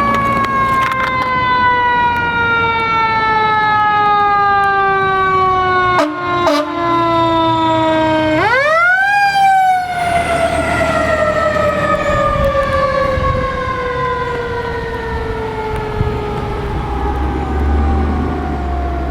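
Fire engine siren winding down in a long, slow falling pitch. About eight seconds in it is brought quickly back up, then it falls slowly again. A low engine rumble grows near the end.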